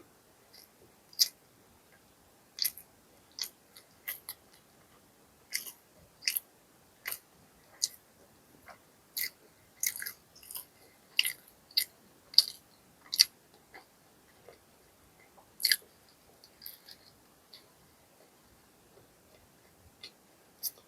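Close-miked chewing of crispy fried fast food: sharp crunches and wet mouth clicks every half second to a second, thinning out and growing fainter in the last few seconds.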